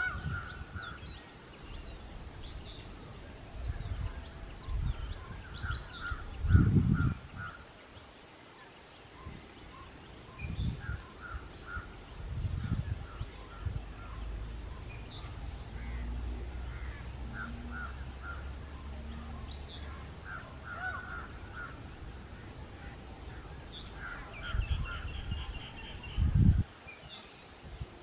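Birds calling repeatedly in short series of harsh calls, with several loud low rumbling thumps now and then.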